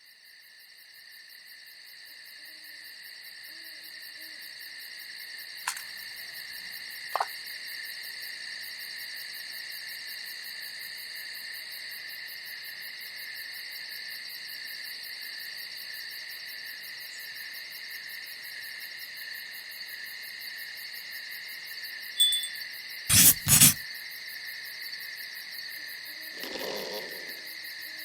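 A steady night chorus of crickets, several high trilling pitches at once, fading in over the first few seconds. It is broken by a couple of faint sharp clicks and, about two-thirds of the way in, two loud knocks close together.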